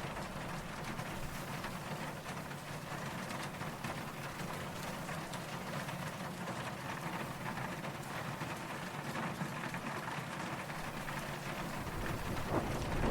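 Steady rain falling, an even hiss of many drops. A low rumble of distant thunder begins to build near the end.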